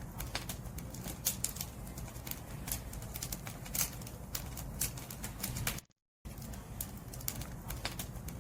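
Wood fire crackling, with frequent irregular sharp pops and snaps over a low rumble of burning. The sound cuts out completely for a moment about six seconds in.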